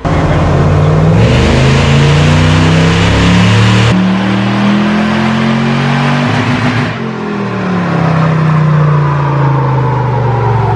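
Supercharged Toyota off-road truck engine making a full-throttle dyno pull. The revs climb steadily for about seven seconds with a brief break about four seconds in. Then the throttle closes and the engine winds down, its pitch falling.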